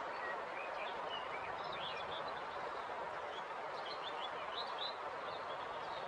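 River water flowing in a steady rush, with small birds chirping over it in many short high calls.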